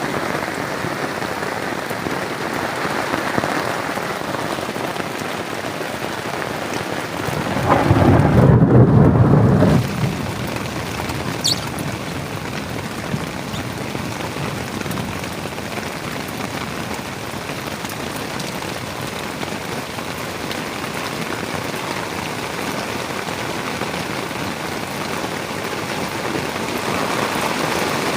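Heavy rain falling steadily, with a deep rumble of thunder about eight seconds in that lasts some two seconds and breaks off fairly suddenly.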